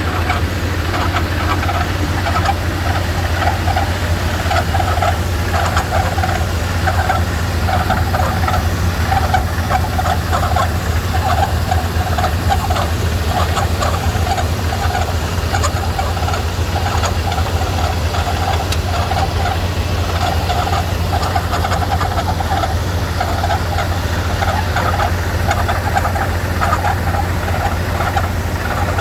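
1995 Ford F-350 pickup's engine idling steadily, a constant low hum with a rough clatter over it.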